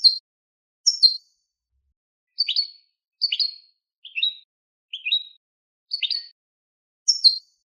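Hybrid goldfinch × linnet giving short, separate chirp calls, about eight of them roughly a second apart with silence between: the clipped call style known as tabtabit.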